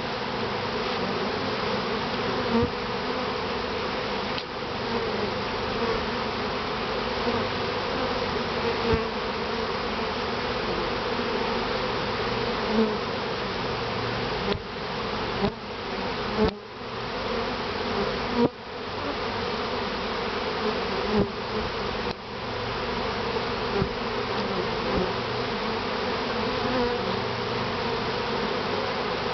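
Many honeybees buzzing steadily around an opened top-bar hive, a dense, continuous hum from a colony disturbed by the honey harvest. A few short knocks and brief dips in the sound come in the middle.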